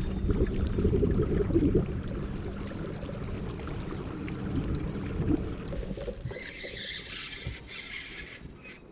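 Water and rumbling noise around a fishing kayak, with a steady low hum that fades out about two seconds in and a brief higher hiss near the end.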